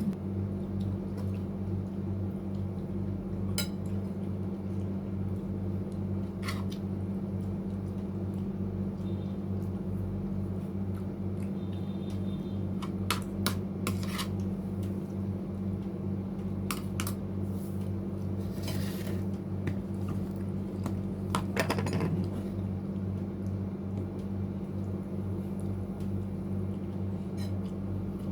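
Utensils clinking and knocking now and then against dishes while eating: scattered short clicks at irregular times, over a steady low hum.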